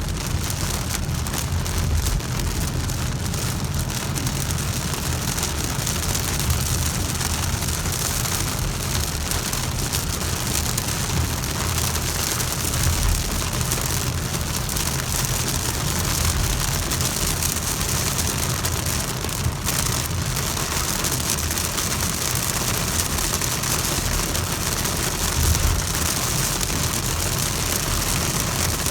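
Heavy rain falling steadily, a constant hiss of rain on surfaces with a low rumble underneath.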